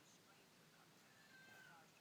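Near silence with a faint, short, high whining call from a pet about a second in, falling in pitch.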